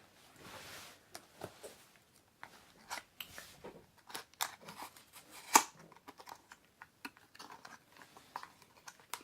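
Packaging of a small mystery pin box being opened by hand: scattered rustles, crinkles and small clicks, with one sharper click about five and a half seconds in.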